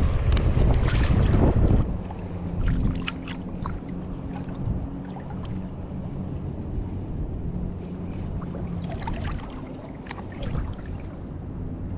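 Wind buffeting the microphone for about the first two seconds. Then it is quieter, with a faint steady low hum and scattered small clicks and splashes of shallow water.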